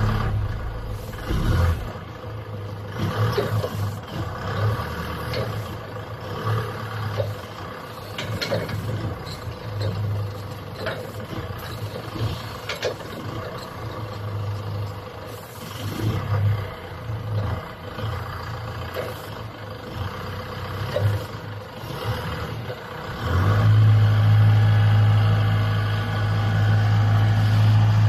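Heli CPCD35 3.5-ton diesel forklift running, its engine note swelling and dropping repeatedly with scattered clicks and knocks as the mast is worked. About 23 seconds in, the engine picks up and runs louder and steadily.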